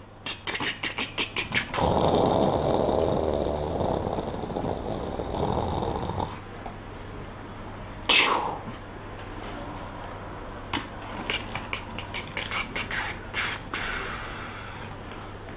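Die-cast toy vehicles being handled and set down: a run of quick clicks, then about four seconds of a growling engine-like rumble, likely a person's mouth imitation of an engine, then scattered clicks and knocks of the toys.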